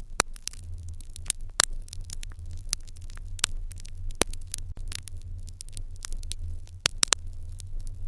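Wood fire in an irori hearth crackling, with irregular sharp pops several times a second, a few of them louder, over a steady low hum.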